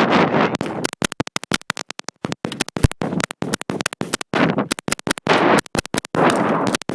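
Several M16A2 rifles firing 5.56 mm rounds on semi-automatic along a firing line: many sharp, irregular shots overlapping one another, beginning about half a second in.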